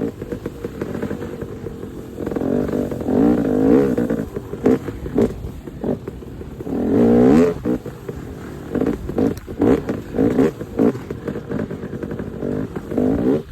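Dirt bike engine revving up and down over and over as it is ridden, with short knocks and rattles throughout.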